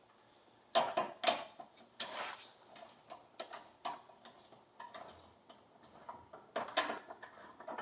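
Lug nuts being tightened onto a car wheel with a hand wrench: irregular metal clicks and clinks, the loudest about a second in and again near the end.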